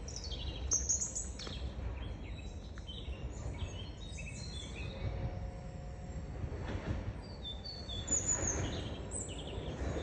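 Several birds chirping and calling in short high bursts over a steady low rumble. A broad rushing noise swells near the end.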